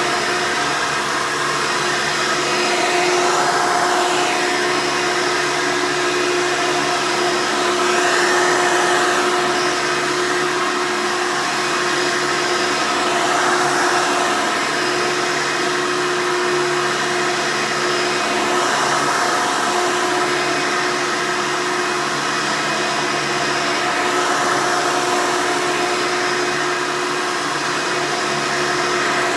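Rebuilt Hoover Elite vacuum cleaner running continuously: a steady motor whine over the rush of airflow, swelling and easing slightly as it works.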